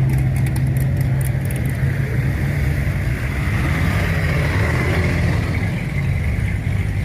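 Car engine running with a steady low tone, with a few light ticks in the first couple of seconds.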